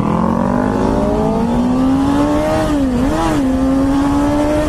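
Motorcycle engine pulling under throttle, its pitch rising slowly, with a brief dip and recovery about three seconds in, over wind rush.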